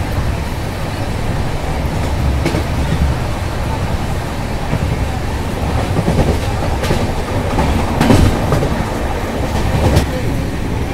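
Brindavan Express passenger train running on the rails: a steady rumble of coach wheels on the track, with a few sharper clacks over rail joints.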